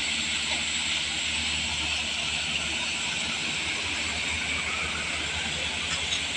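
Diesel truck engine running steadily under load on a steep climb: a constant low drone with an even high hiss over it.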